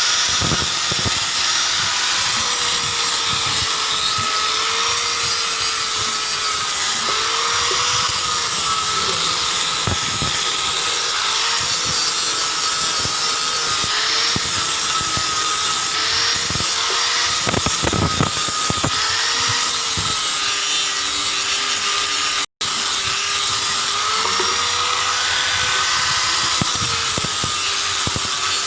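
Small electric power tool running steadily as it works. Its motor pitch wavers and dips again and again under load, and the sound drops out for an instant about two-thirds of the way through.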